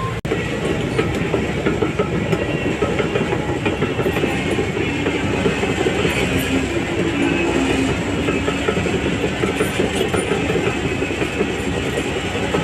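Shantui DH17C3 crawler bulldozer at work: the diesel engine runs steadily under load while the steel tracks keep up a dense, continuous clanking clatter. There is a momentary break in the sound just after the start.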